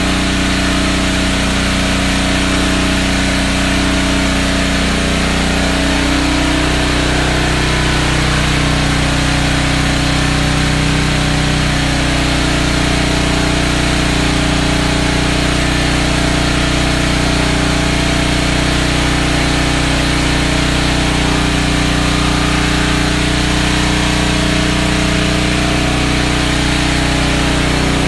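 A motor running steadily, with a stack of steady low tones over a constant hiss; its pitch shifts slightly about six seconds in.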